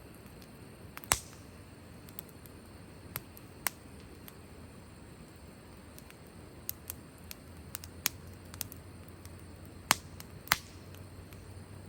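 Burning firewood crackling: scattered sharp pops at irregular intervals, the loudest about a second in and two more near the end, over a faint steady low hiss.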